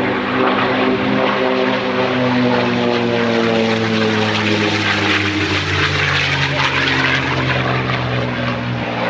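P-51 Mustang's Merlin V12 engine and propeller in a fly-by: a loud, steady drone whose pitch falls through the middle as the fighter passes.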